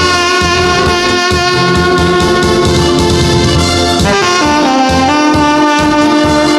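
Tenor saxophone playing the melody of a Korean trot song in long held notes, the pitch changing about four seconds in, over a backing track with a steady bass beat.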